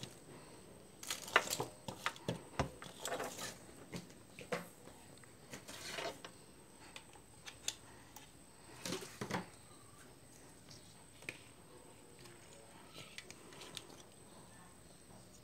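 Irregular clicks, taps and short rustles of hands handling small objects, busiest in the first ten seconds, then only a few faint ticks.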